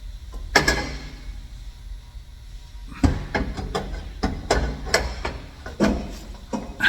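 Irregular knocks and clanks of metal as exhaust pipes are worked onto an H-pipe, the loudest about half a second in and again at three seconds, with lighter taps between.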